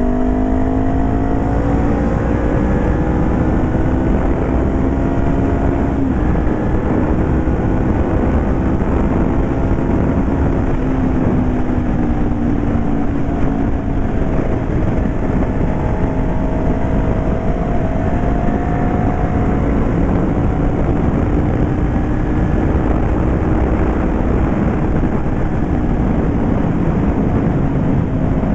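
Warm 2018 Honda CBR500R parallel-twin engine running through a de-baffled exhaust, its pitch holding fairly steady with slow, slight rises and falls. Wind noise on the microphone.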